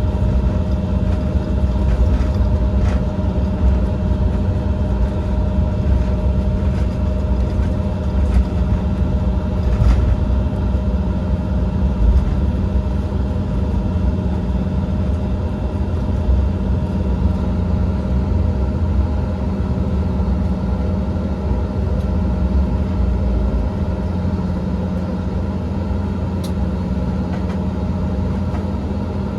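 Embraer 170 airliner with its two General Electric CF34 jet engines running steadily at low power: a constant low rumble with an even hum over it, no rise in power, as on the ground before the takeoff run.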